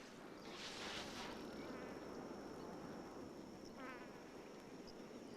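Bush ambience of insects: a steady, thin, high-pitched insect drone sets in about a second in. It follows a short rush of noise, and a brief rippling chirp comes near the four-second mark.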